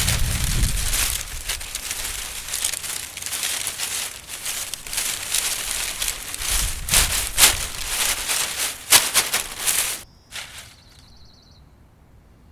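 Dry cattail leaves being handled, a dense crinkling rustle with sharp crackles that stops abruptly about ten seconds in.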